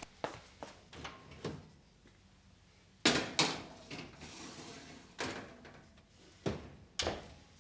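Kitchen storage being handled: a series of knocks and bumps, with a sharp double knock about three seconds in followed by a sliding rub, like a drawer or cupboard being worked, and a few more knocks near the end.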